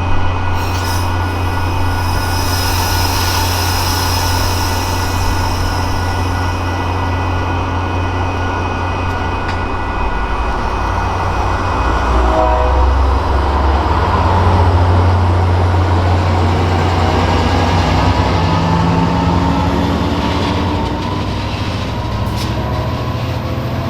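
Metra commuter train hauled by an EMD F59PH diesel locomotive, running past with a steady low engine drone and rail noise.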